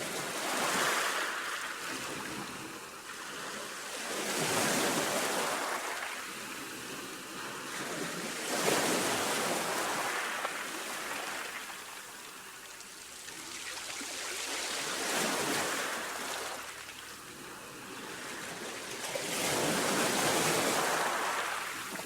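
Baltic Sea waves breaking on the shore. The surf rises and falls in surges every four to five seconds.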